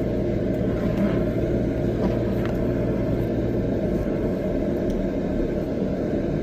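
Excavator's diesel engine running steadily, heard from inside the cab, with a few faint rattles; the deepest part of the drone drops away about four seconds in.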